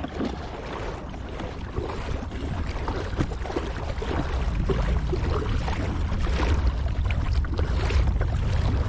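Kayak paddling on open water: irregular splashes and drips from the paddle and hull over a steady low rumble.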